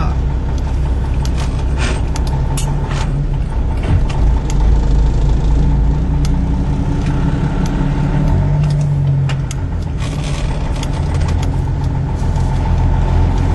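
Vehicle engine and road noise heard from inside the cab: a steady low drone with scattered clicks and rattles.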